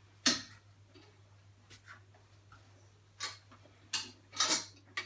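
A handful of sharp, irregular knocks and clicks, like objects being handled and set down. The loudest comes about a third of a second in, and a slightly longer one comes around four and a half seconds in.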